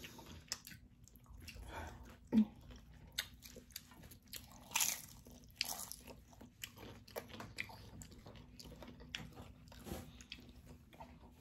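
Close-up crunching and chewing of tortilla chips from loaded nachos, eaten by hand: irregular crisp crunches, the loudest a little over two seconds in and again near five seconds.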